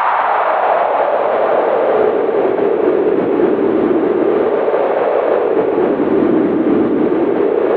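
Howling winter wind, a steady rushing whose pitch slides down over the first few seconds and then sways slowly up and down.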